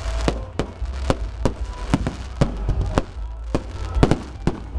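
Fireworks display: a rapid, irregular string of sharp bangs, about three or four a second, over a steady low rumble.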